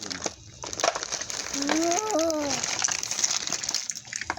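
Plastic packaging crinkling and rustling as a toy refrigerator set is unwrapped, with a short rising-and-falling tone about two seconds in.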